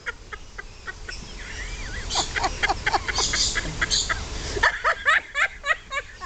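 Parrot chattering close by: a rapid run of short clicks and chirps, ending in a quick series of rising-and-falling chirps a little before the end.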